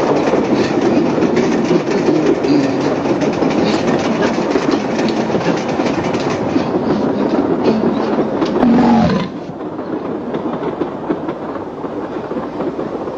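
Train running sound: the steady rumble and clickety-clack of a railway carriage's wheels over rail joints, as heard inside the compartment. About nine seconds in, a brief loud pitched cry cuts in, and the rumble then carries on a little quieter.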